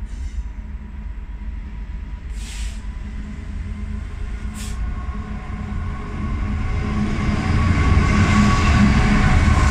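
Diesel freight locomotive hauling container wagons approaches and passes close by: its engine rumble and wheel noise grow steadily louder, loudest in the last two seconds as the locomotive goes by. Two brief hisses about two and a half and four and a half seconds in.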